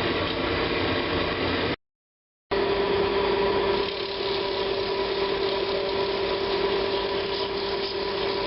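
Woodturning lathe running with a steady hum and whir while turning a wooden bowl blank. The sound cuts to silence for under a second about two seconds in, then resumes.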